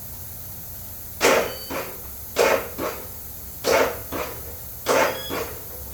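A dog barking: four double barks about a second apart, each a loud bark followed by a softer one.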